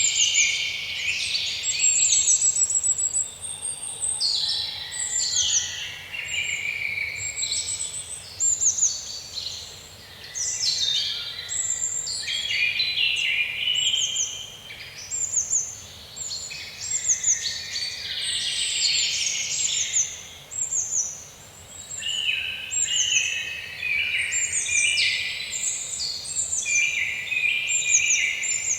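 A chorus of several songbirds singing at once, with dense overlapping high chirps and quick falling whistles and only brief lulls.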